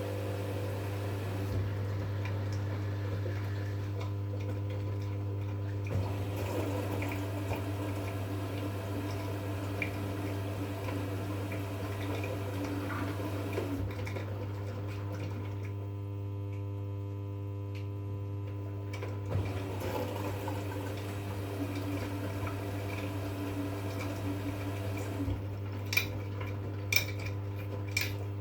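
V-Zug Unimatic SL washing machine running a 40°C wash: water running and sloshing in the drum over a steady hum. The water thins out for a few seconds past the middle, and a few sharp clicks come near the end.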